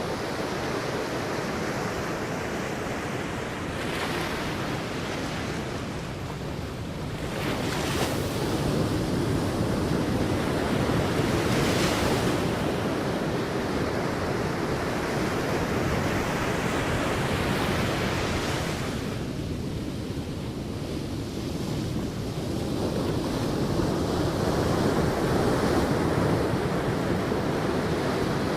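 Sea waves washing onto a beach: a continuous rush of surf that swells louder twice, about eight seconds in and again near the end, and eases between.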